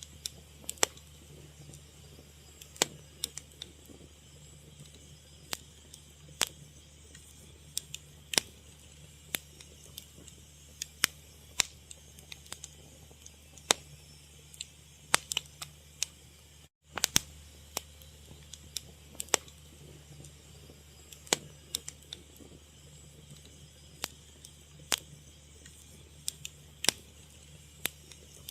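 Wood fire crackling: sharp, irregular pops and snaps, one to three a second, over a steady low hum. The sound cuts out for a split second about halfway through.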